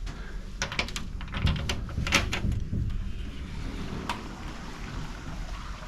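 A handful of sharp clicks and knocks in the first two and a half seconds and a single one about four seconds in, over a steady low rumble.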